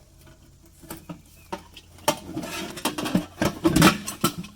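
Metal clicking and clinking as an Allen wrench is worked on a set screw to tighten a metal fitting: a few faint clicks, then a quicker run of louder clinks from about two seconds in.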